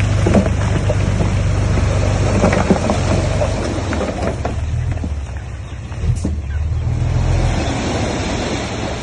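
Heavy diesel earth-moving machinery running under load, a steady low engine drone with scattered knocks and clanks. The engine eases off about five seconds in, then picks up again.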